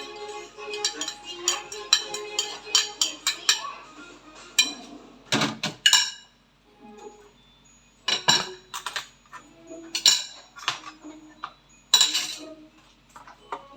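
Dishes and metal utensils clattering and clinking in several separate bursts. A children's song with a steady beat plays over the first few seconds.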